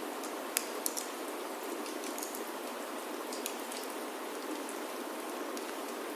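Steady rain falling on a roof, with a few scattered sharp pops and crackles from a wood fire in a fireplace.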